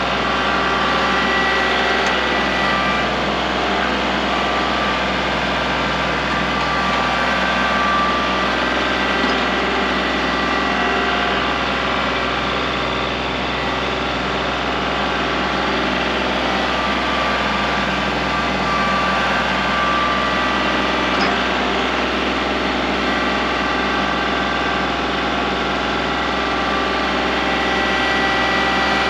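Kubota L3901 compact tractor's three-cylinder diesel engine running steadily.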